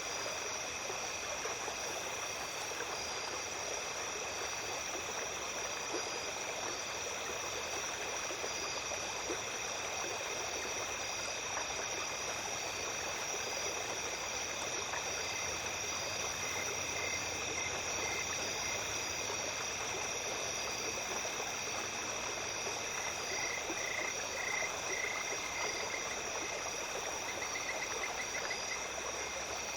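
Small stream flowing at night, a steady rush of water under a continuous chorus of insects holding high steady tones. A pulsing trill joins about halfway through and again for several seconds near the end.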